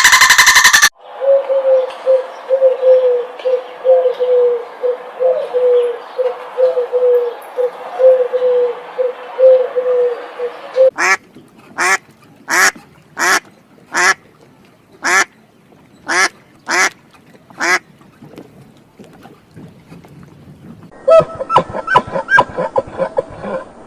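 Ducks quacking. First comes a long run of quick, even quacks, then about ten loud separate quacks roughly one every half second, then a short rapid flurry near the end.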